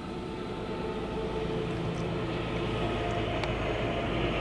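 Double-stack container freight train rolling past: a steady rumble of railcar wheels on the rails.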